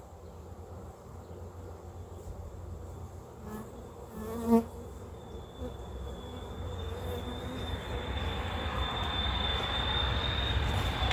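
Honeybees buzzing around a hive, with one bee passing close by in a short loud buzz about four and a half seconds in. A steady high whine joins about halfway through, and the sound grows louder toward the end.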